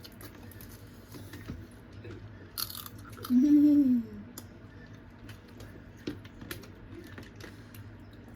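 Crab leg shells being cracked and picked apart by hand, with scattered small clicks and crackles and one sharp crack about two and a half seconds in. The crack is followed by a short, loud vocal grunt that rises and falls in pitch, from the effort of breaking a hard crab leg.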